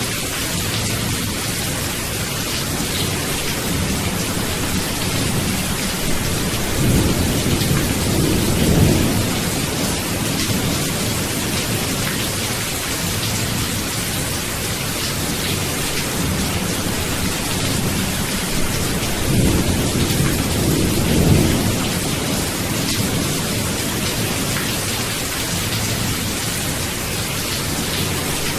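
Steady rain falling, with low rolling thunder swelling up twice, about seven seconds in and again around twenty seconds.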